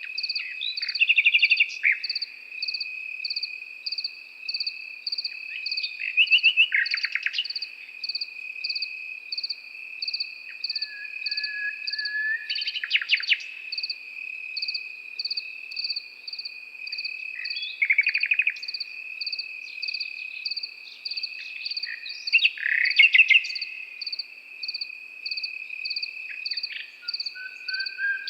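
Crickets chirping in a steady, even pulse over a continuous high trill, while a nightingale sings short phrases of fast rattling trills and whistles every few seconds.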